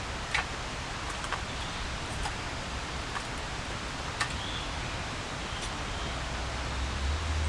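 Steady hiss of rain falling in a forest, with a few sharp ticks roughly a second apart.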